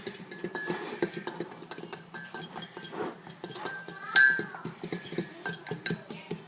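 Fork clinking and scraping against a dish in quick, irregular strokes as dry flour and cocoa powder are stirred together. A short high squeal cuts in about four seconds in.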